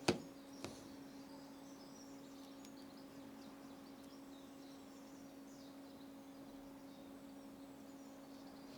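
A sharp click just at the start and a softer click about half a second later, from small objects being handled on a workbench, over a steady faint electrical hum.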